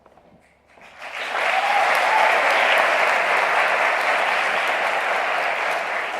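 Audience applauding, starting about a second in after a brief hush and then holding steady and dense.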